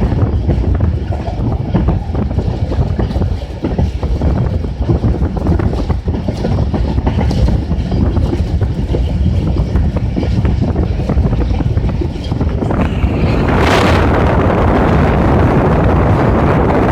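Passenger train running past, a steady low rumble with wheels clicking over the rail joints. About thirteen seconds in, a louder steady rushing noise takes over.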